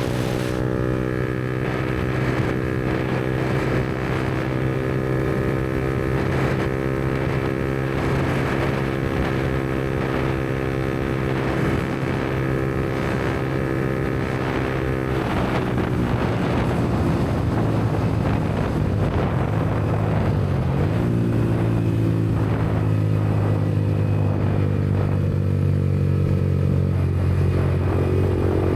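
Yamaha MT-125's 125cc single-cylinder four-stroke engine running through a Black Widow aftermarket exhaust at a steady cruising pitch. About halfway through, the engine note slides lower and holds there, then rises a little near the end.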